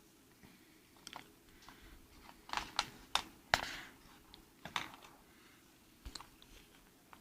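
Scattered light clicks and taps of small plastic parts being handled: the opened toy RC helicopter's frame and its loosened cylinder. The clicks come in an uneven run, sharpest and most frequent a few seconds in.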